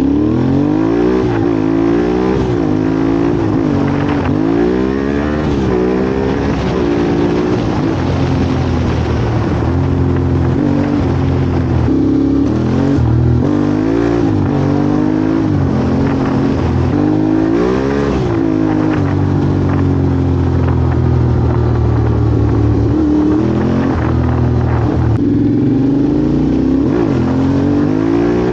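Yamaha Ténéré 700's parallel-twin engine, de-catted and remapped, revving through an open exhaust with the dB killer removed. It revs up and drops back many times, with a steadier low-pitched run in the middle.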